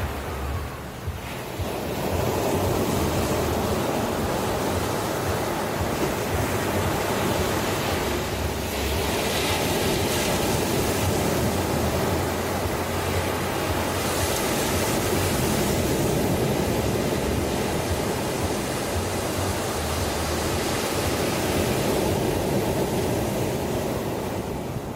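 Ocean waves washing ashore: continuous surf that swells about two seconds in and eases off near the end.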